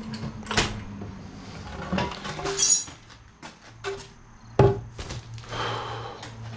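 Scattered metal clunks and knocks from hands and tools working under a Walker mower's deck, the loudest thump about four and a half seconds in, over a low steady hum.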